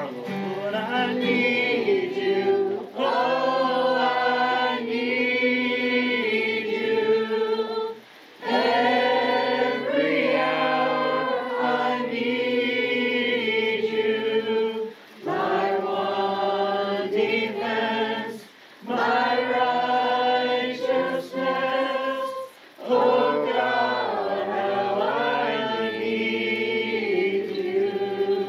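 A group of voices singing a hymn together in long held phrases, with brief pauses for breath between lines.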